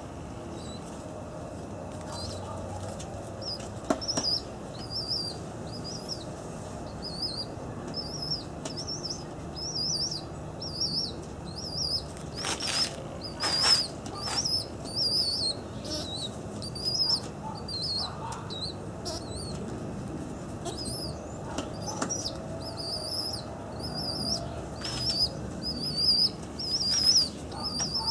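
A small bird chirping over and over, short high calls about one or two a second, starting a few seconds in, with a couple of wing flaps about halfway through.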